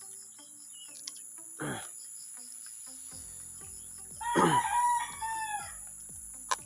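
A rooster crowing once, about four seconds in, over a steady high buzz of crickets.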